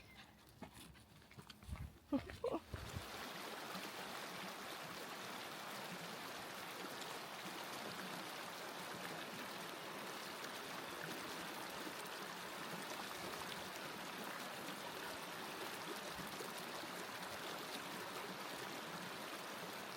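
Steady rush of flowing water, starting abruptly about three seconds in after a few quiet seconds with some soft knocks.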